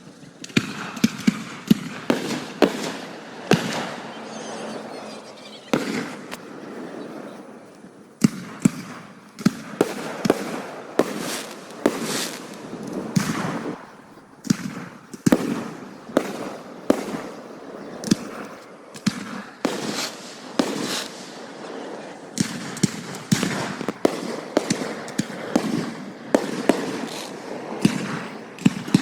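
Aerial fireworks show: a rapid, irregular barrage of shells bursting, dozens of sharp bangs with rumbling echoes trailing after them. The firing eases briefly twice.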